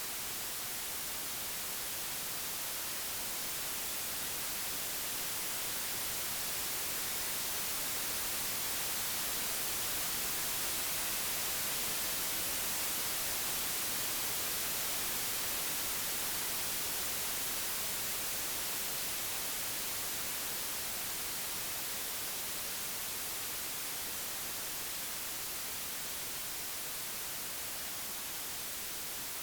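Computer-generated white noise: a steady, even hiss with no tones or events, swelling slowly in loudness toward the middle and easing off again.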